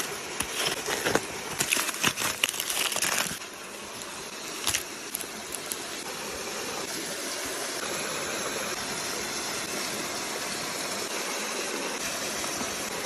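Metal cookware clinking and clattering for about three seconds, with one more knock shortly after, then a steady hiss from the pot that holds to the end.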